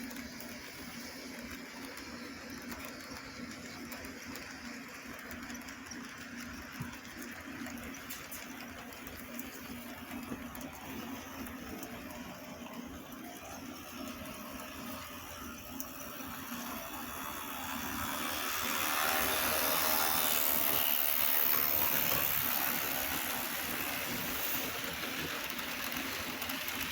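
HO-scale model locomotives running on the layout: a steady electric-motor hum with whirring gear and wheel noise, swelling louder for several seconds past the middle as a train draws near.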